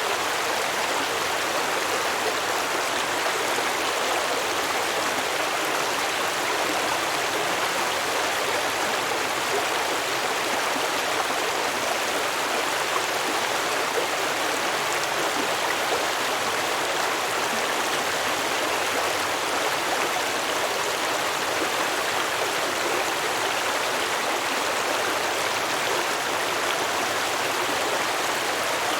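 Stream water flowing and babbling over rocks, a steady even rush with no pauses or changes.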